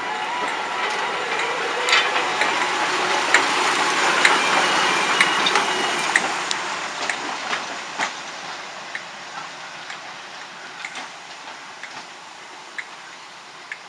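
Diesel shunter D2595 and its train passing, wheels clicking irregularly over rail joints; the noise swells to a peak about four seconds in, then fades away.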